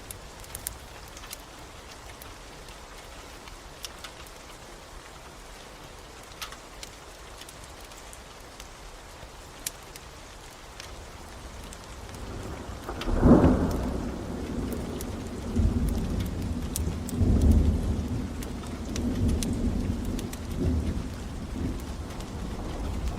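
Steady rain with scattered faint crackles, then thunder about halfway through: a low rumble that swells to a loud peak and keeps rolling in waves.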